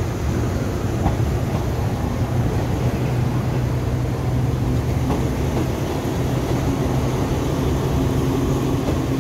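Passenger train running slowly through the station yard, heard from aboard: a steady low engine hum and wheel-on-rail rumble, with a few faint clicks.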